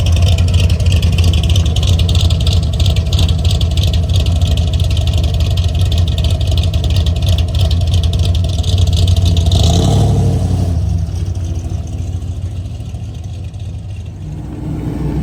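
Car engine running loudly with a low exhaust rumble, easing off about ten seconds in and picking up again near the end.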